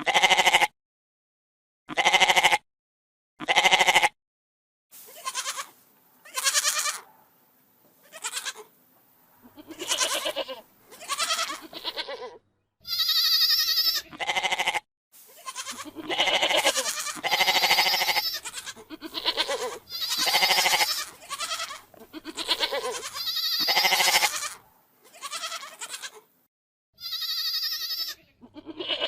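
Domestic goats bleating, about twenty separate calls, some short and some drawn out. The first three are cut apart by dead silence. After that the bleats come more densely, with several higher-pitched ones among them.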